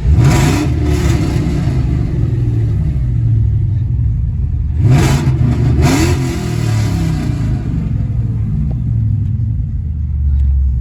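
Car engine with long-tube headers, an X-pipe and the mufflers cut off, revved twice, about 5 seconds apart. Each rev climbs in pitch and comes with a hiss from the blow-off valve, then the engine settles back to a loud idle.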